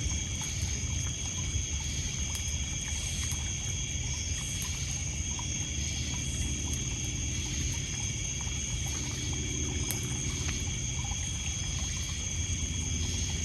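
Night shoreline ambience: a steady chorus of crickets and other insects ringing on several high pitches, over small waves lapping on a pebble beach. A few faint crackles from a wood campfire come through now and then.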